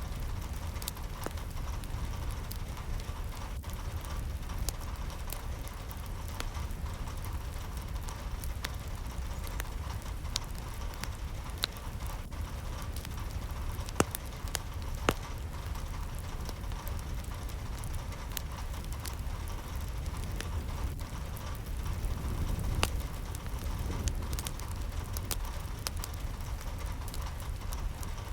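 Steady rain with scattered sharp drips and taps, over a low rumble.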